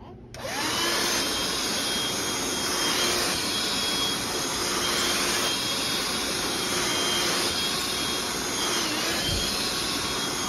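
Black+Decker Dustbuster QuickClean cordless handheld vacuum switching on and running steadily: a hiss of rushing air with a faint motor whine.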